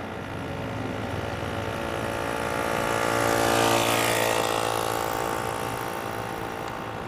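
Solex moped's small two-stroke engine running on a trike chopper, growing louder to a peak a little past halfway and then fading.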